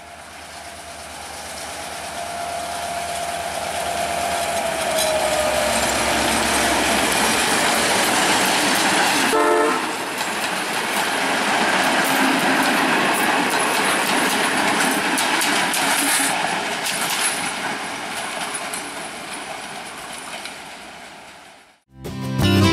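Diesel locomotive hauling a mixed passenger train past at speed: a long horn note that drops in pitch about five seconds in as the locomotive passes, then engine and the rattle and clatter of the carriages' wheels over the rail joints, fading as the train moves away. The sound cuts off just before the end and guitar music begins.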